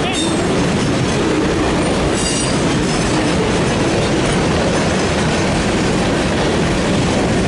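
Freight train rolling past close by: a steady, loud rumble and clatter of railcars on the track, with a short high squeal from the wheels about two seconds in.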